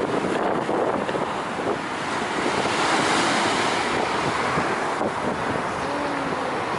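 Ocean surf washing in, with wind buffeting the microphone. The wash swells to its loudest about three seconds in, then eases.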